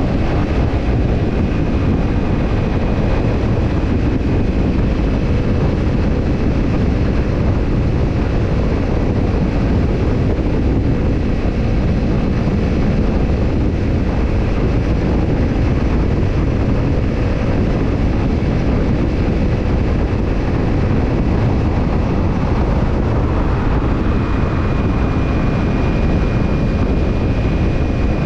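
Kawasaki Ninja 250's parallel-twin engine and BEET Japan Nassert Evolution Type II titanium slip-on muffler, running steadily with no clear revs or gear changes.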